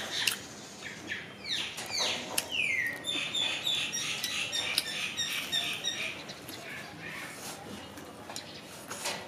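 Songbird calling: a few quick falling whistles, then a fast run of repeated high notes for about three seconds. Under it come scattered sharp crunches of crispy fried chicken being bitten and chewed.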